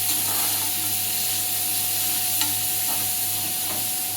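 Sliced onions sizzling in hot oil in a pan as they start to fry, with a spoon stirring and a few light clicks of it against the pan.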